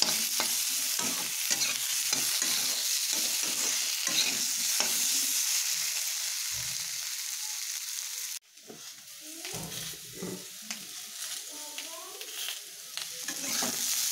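Potato cubes and tomato pieces frying in oil in a non-stick pan: a steady sizzle, with a metal spatula scraping and tapping the pan as they are stirred. About eight seconds in the sizzle drops off sharply and goes on more faintly.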